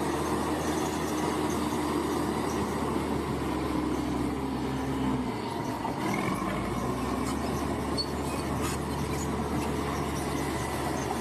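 Bulldozer at work: its diesel engine running steadily under the metallic squeal and clatter of its steel crawler tracks. The engine note shifts a little over halfway through.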